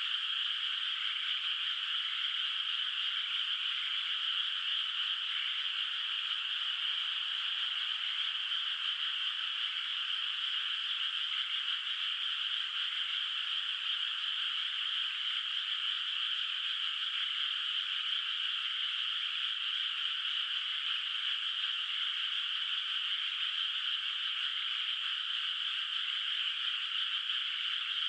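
A dense chorus of many rice-paddy frogs calling together, steady and unbroken, with no single call standing out.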